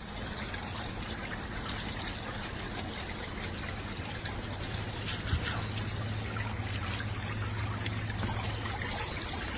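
Steady trickling water over a low hum, with scattered small clicks.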